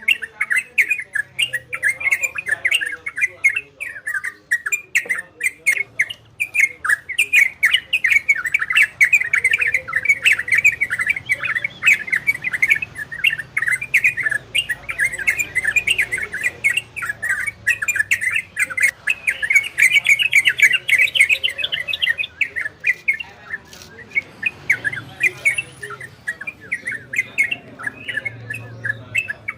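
Yellow-vented bulbul (trucukan) singing a rapid, continuous chattering song of quick rolling notes, softer in the last few seconds.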